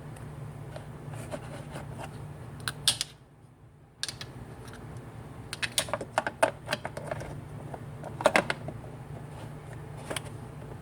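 Axial exhaust fan motor running with a steady low hum, broken by irregular clusters of light clicking and rattling. The hum cuts out for about a second around three seconds in, then returns.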